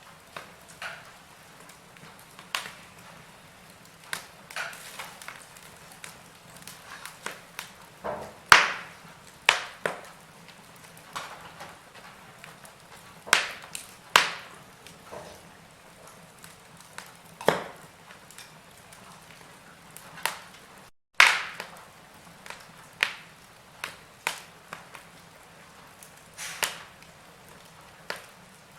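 Wood fire in a fireplace crackling, with irregular sharp pops and snaps over a faint hiss, several of them loud. The sound cuts out for a split second once, partway through.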